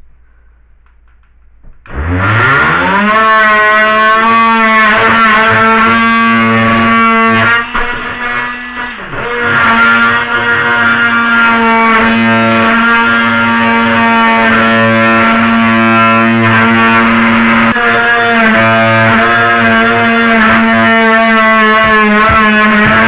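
Dremel rotary tool spinning up with a quick rising whine about two seconds in, then running at a steady high pitch while cutting, with a short sag in level partway through as the load changes.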